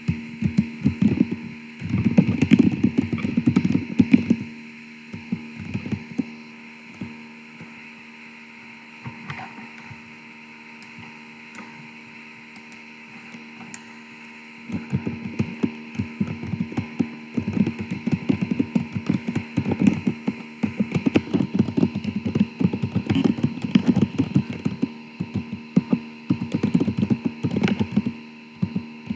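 Steady electrical hum and hiss from a faulty church sound system, with bursts of irregular crackling and thumping at the start and again from about halfway through to the end, typical of a bad microphone connection or a microphone being rubbed.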